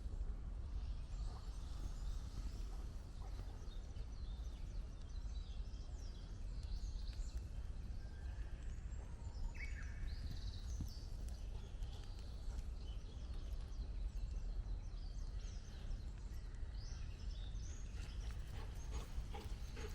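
Forest ambience: scattered short bird chirps and calls over a steady low rumble.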